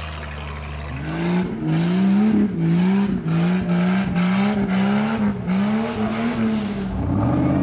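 Off-road 4x4's engine revving hard under load as it climbs, its pitch surging up and down about twice a second. A lower steady engine drone comes first, and near the end the engine settles into a steadier tone.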